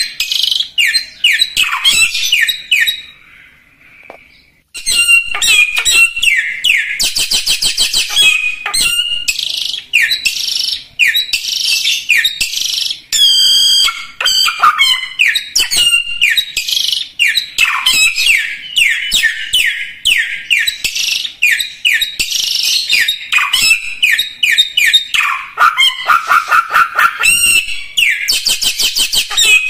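Samyong songbird singing loud, rich song without pause: rapid trills and runs of quick down-slurred whistled notes, repeated phrase after phrase, with one brief break about three seconds in.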